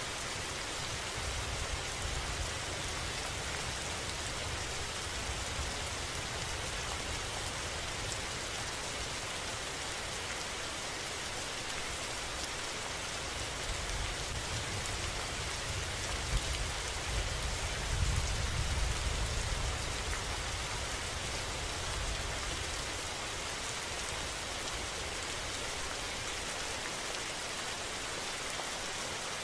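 Steady rain falling, an even hiss, with a deeper low rumbling that swells in the middle and is loudest about two-thirds of the way through.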